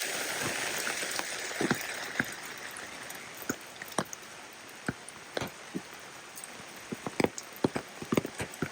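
Rain falling: a steady hiss, a little louder for the first couple of seconds, with irregular close drops plinking and tapping on a surface, coming more often near the end.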